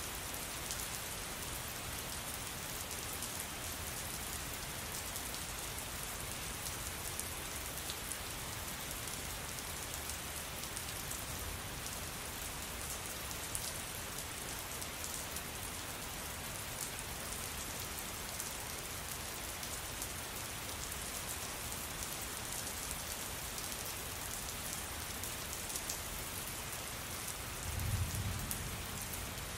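Steady rain falling, an even hiss with many fine drop patters. A brief low rumble rises near the end.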